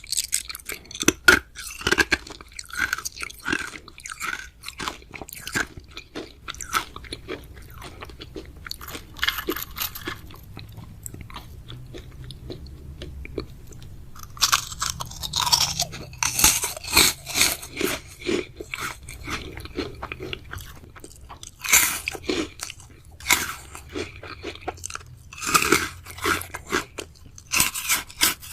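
Close-miked eating: chewing and crunching bites of sweets, with clusters of crisp crackling and clicks and a quieter stretch about a quarter of the way in.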